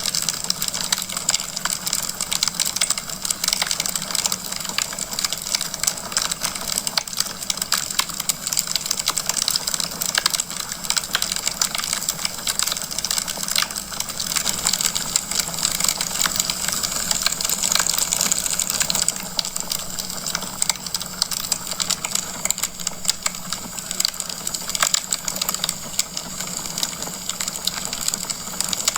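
Wood fire burning in a fireplace: dense, irregular crackling and small pops over a steady hiss.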